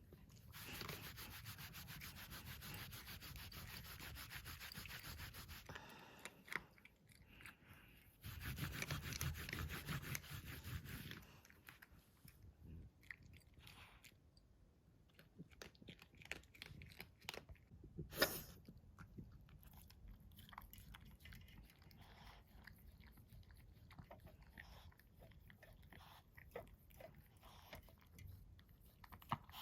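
A Coton de Tulear dog eating dry food, with crunching and chewing in two longer runs early on and scattered clicks afterwards.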